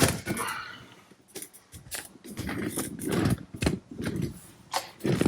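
Handling noises of a small plastic speedometer pickup fitting being worked onto a stern drive by hand: irregular clicks and knocks with stretches of scraping and rubbing, a sharp knock at the start and another near the end.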